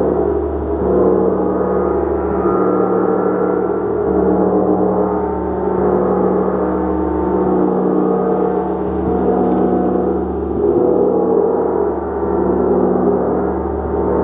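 Large gong played continuously in a sustained wash of overlapping tones, its deep low hum swelling and fading again and again.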